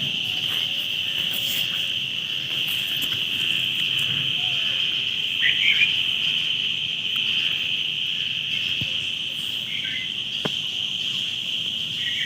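Insects droning steadily at one high pitch, with a few short bird chirps about five and a half and ten seconds in, and a single click just after the second chirps.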